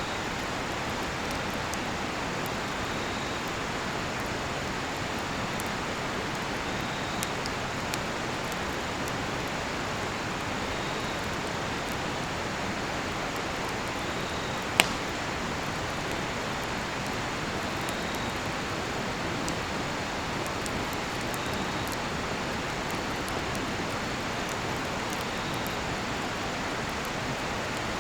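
Steady rush of a river with a cedar-wood campfire crackling: a few small pops and one sharp, loud pop about halfway through. Faint cricket chirps repeat every second or so over the water.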